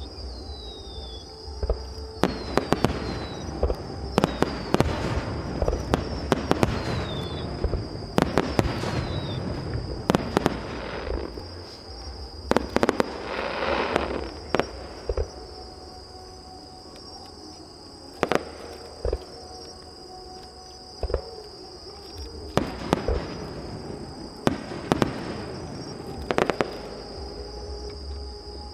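Aerial fireworks shells bursting in a long series of sharp bangs, some in quick clusters, several followed by a crackling hiss. A few short falling whistles sound in the first ten seconds, over a steady high thin tone.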